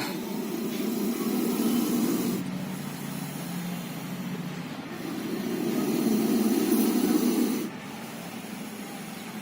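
Baby spectacled cobra hissing: two long, breathy hisses, the first from the start to about two and a half seconds in and the second from about five seconds to nearly eight, with a softer breath between them.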